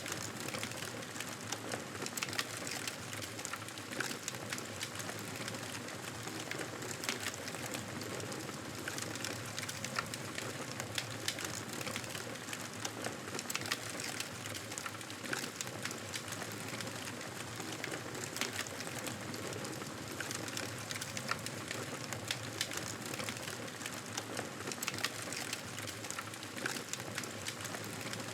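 Wood fire crackling in a fireplace: a steady hiss scattered with frequent, irregular sharp pops and crackles.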